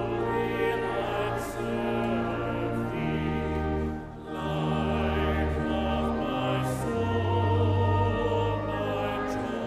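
Church music for communion: singing with vibrato over sustained low bass notes that move every second or so.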